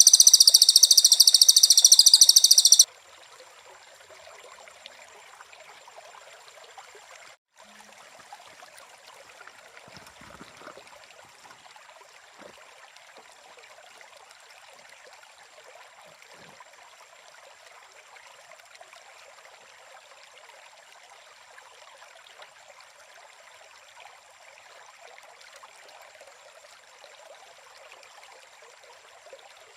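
Nature-sound ambience: a loud, high-pitched buzzing chorus cuts off suddenly after about three seconds. It leaves a faint bed of soft hiss with a thin, steady high insect-like tone.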